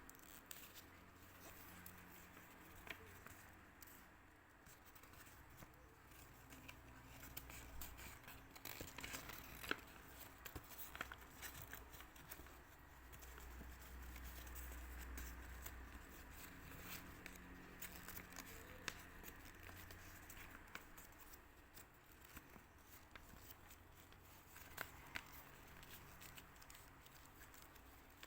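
Faint handling of a sheet of paper as it is folded and creased, with scattered small clicks and rustles over a low background hum.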